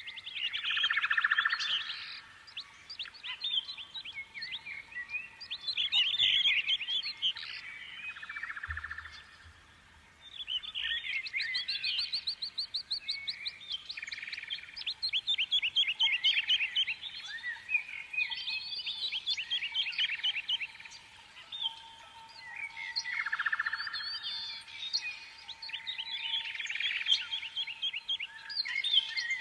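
Many small songbirds chirping and trilling at once, with rapid, overlapping high calls that swell and fade in waves.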